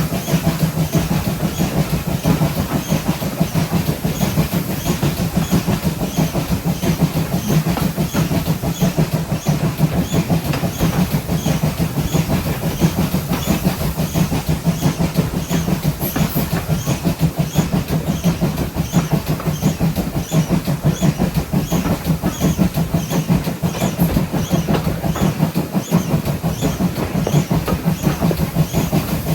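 Train hauled by steam pannier tank locomotive 7754 running steadily, heard riding along, with an even, repeating rhythmic beat over a constant rumble.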